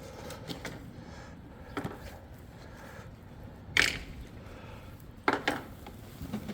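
A few short, sudden handling sounds, knocks and rustles of things being moved about, the loudest about halfway through, over a low steady hum.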